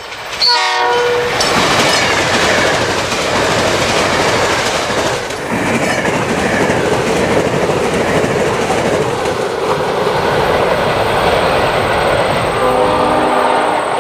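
South Shore Line electric multiple-unit commuter train passing close by at speed. A short horn blast sounds about half a second in, followed by the loud rush and clickety-clack of the wheels on the rails as the cars go by. Near the end the horn sounds again, lower in pitch as the train moves away.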